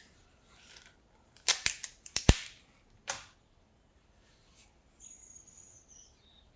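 A quick run of sharp clicks and snaps, the loudest near the end of the run, followed by one more click about a second later.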